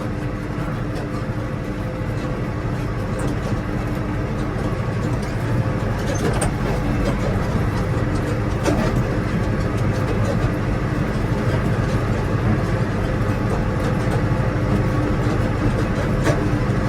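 A vehicle's engine running steadily under way, with a constant low hum and a few light rattles.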